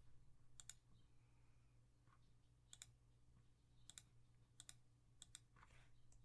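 Faint computer mouse clicks: about five, each a quick double tick, spaced unevenly over a low steady hum.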